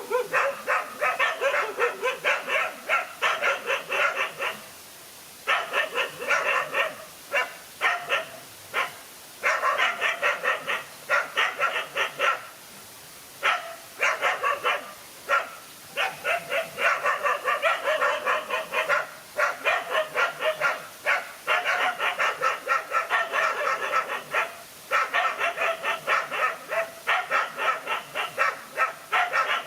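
Dogs barking in long, rapid volleys of sharp barks, broken by several short pauses.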